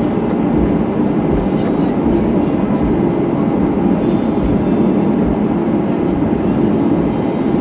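Airbus A320-211's CFM56 jet engines at high takeoff thrust, heard from inside the passenger cabin as a loud, steady roar.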